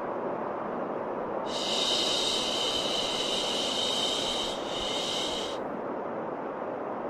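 Steady white noise for soothing a baby, with a long 'shhh' shushing sound over it for about four seconds, starting about a second and a half in.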